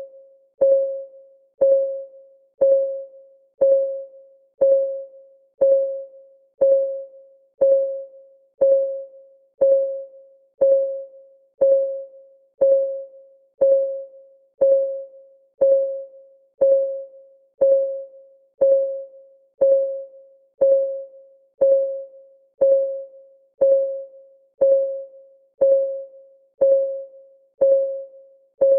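Countdown timer's clock-ticking sound effect: one short, pitched tick about every second, each fading away quickly, in an even, unbroken rhythm.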